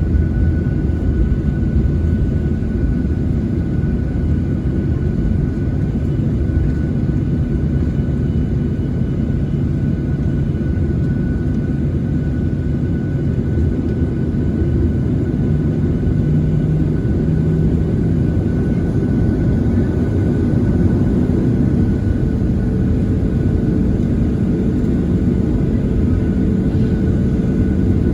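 Cabin noise inside a Boeing 737-900ER: a steady, loud rumble from the CFM56-7B engines and airflow, with a thin steady whine over it, swelling slightly about halfway through.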